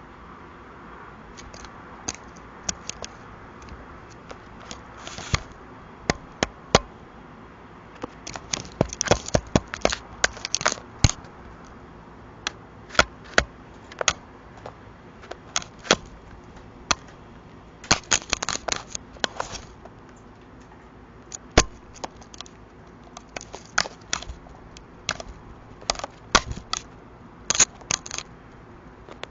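A crow pecking and tapping at a security camera close to its microphone: many sharp, irregular clicks and knocks, some in quick flurries, with short pauses between.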